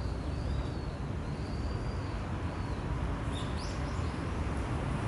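Small birds calling: a few thin, high, drawn-out calls, then a quick cluster of sharp chirps a little past the middle. Under them runs a steady low rumble of city traffic.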